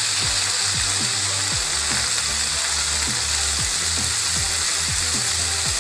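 Chicken and vegetable skewers sizzling steadily in hot oil in a frying pan. Under the sizzle, a low beat of background music thumps about twice a second.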